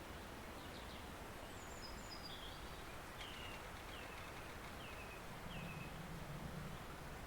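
Stream running steadily with a small bird calling over it: a few high chirps, then four short downward-sliding notes about a second apart. A faint low hum comes in briefly near the end.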